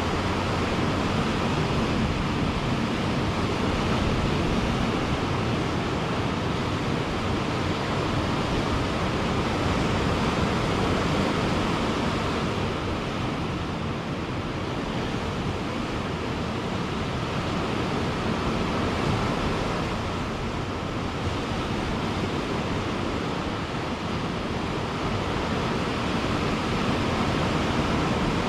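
Ocean surf washing onto a beach in a continuous roar that swells and eases gently, with brief lulls between waves.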